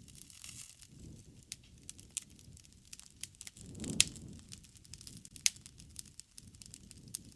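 Wood fire crackling: irregular sharp pops and snaps over a low rush of flame. The low rush swells about four seconds in, around the loudest pop, and another strong pop follows about a second and a half later.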